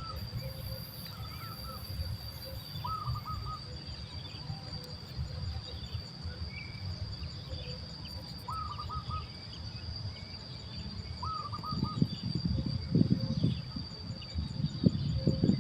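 Short bird calls of a few quick notes each, repeated every few seconds, over a steady high insect drone. A low rumbling noise grows louder in the last few seconds.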